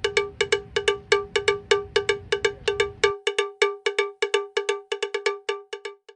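Cowbell-like metal percussion struck in a fast, steady rhythm of about five strikes a second, every strike at the same pitch. A low background rumble underneath cuts off abruptly about three seconds in.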